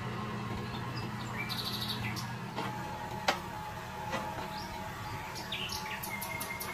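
Small birds chirping and calling over the steady low hum of a running tractor engine, with one sharp click about three seconds in.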